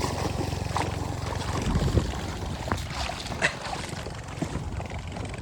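A small engine running steadily as a low, pulsing hum, with scattered clicks and knocks on top.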